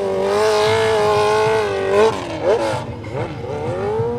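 Open-class hill climb motorcycle with a big streetbike engine running at high revs. The pitch holds steady for about two seconds, drops with a couple of quick blips of the throttle, then climbs back to a steady high note near the end.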